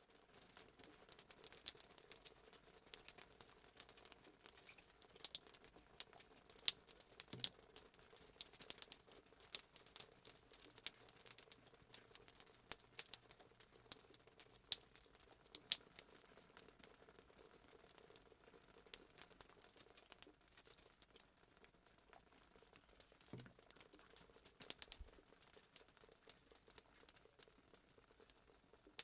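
Fireplace crackling sound effect: faint, irregular pops and snaps of burning wood over a low steady hiss.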